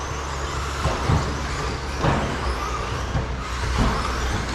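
Electric RC stadium trucks racing on the track: the high whines of 13.5-turn brushless motors rise and fall as they accelerate and brake, with a few short knocks along the way over a steady low hum.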